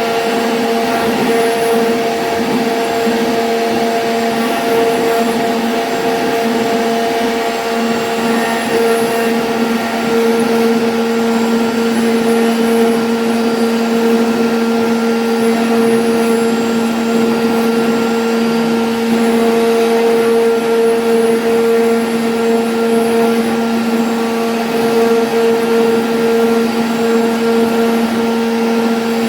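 CNC router spindle running at steady speed while cutting a 2D jali pattern in MDF, a continuous whine with a noisy cutting hiss and no change in pitch.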